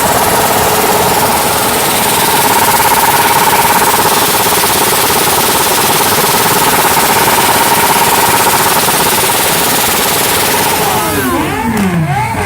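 Motorcycle engines with straight-through exhausts held against the rev limiter: a loud, steady high engine note with a rapid staccato crackle. Near the end the revs drop away, with a couple of throttle blips on the way down.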